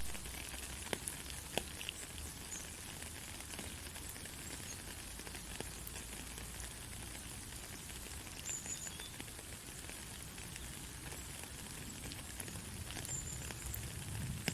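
Gentle rain falling steadily: an even soft hiss with scattered small drop ticks.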